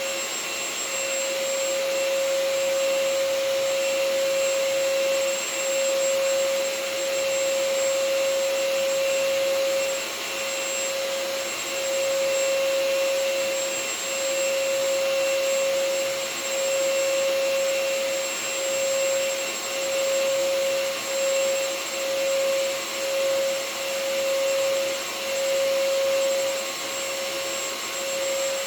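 Vacuum cleaner running steadily: an even whooshing hiss with a strong steady motor whine, its loudness dipping briefly now and then, about once a second in the later part.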